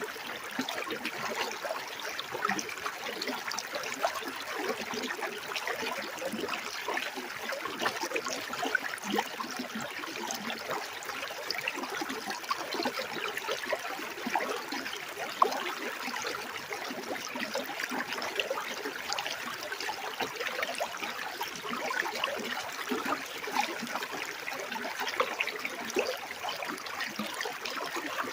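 Running water in a small stream, a steady trickling and babbling, with one brief sharper sound about halfway through.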